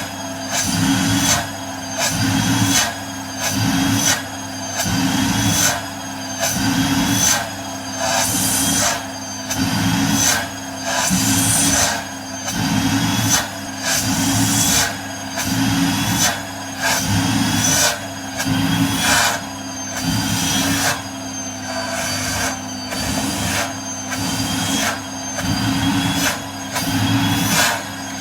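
Vacuum cleaner running with a steady motor whine, its nozzle repeatedly pressed on and pulled off tights or skin, so the suction note swells and chokes in a regular rhythm about once a second.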